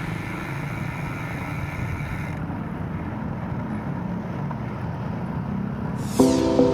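Steady road and traffic noise heard from a moving bicycle, a low even rumble. A falling swish and music with clear struck notes come in near the end.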